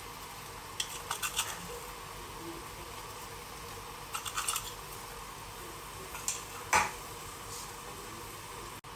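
Small hard clicks and clinks, like utensils or dishes being handled, coming in a few quick clusters with the loudest single click near the end, over a steady hum.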